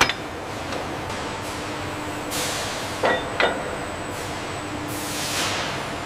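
Heavy-machinery factory floor: a steady mechanical hum and hiss, with a few sharp metal-on-metal clanks that ring briefly, one at the start and two close together about three seconds in, and two falling hissing whooshes.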